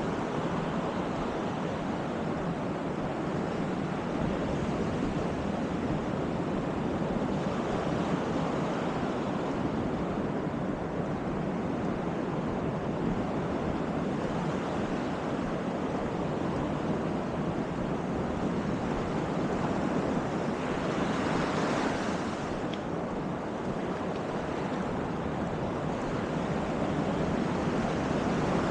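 Baltic Sea surf washing onto the beach in a steady rush, with one wave breaking louder about three-quarters of the way through. Wind buffets the microphone.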